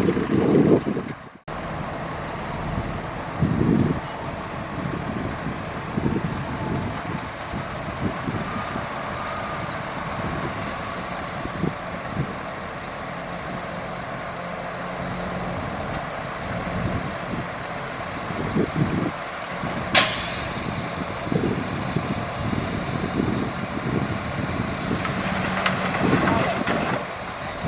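Heavy diesel earthmoving machinery, dump truck and bulldozer, running steadily, with a single sharp knock about twenty seconds in.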